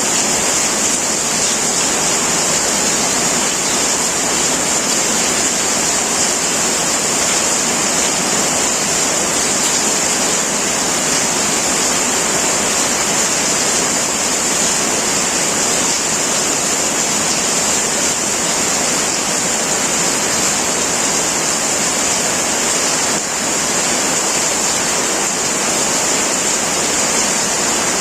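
Heavy rain drumming steadily on a tin roof, a dense even hiss with no thunder.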